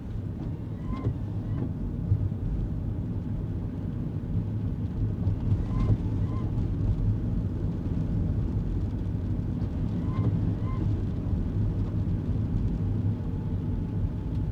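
Steady road and engine rumble inside a kei car's cabin on wet roads. A brief pair of squeaks, half a second apart, comes about one second in, again near six seconds and again near ten seconds.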